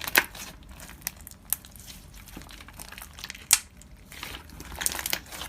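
Slime being handled and squished, giving irregular crackling clicks and pops, with a few louder snaps.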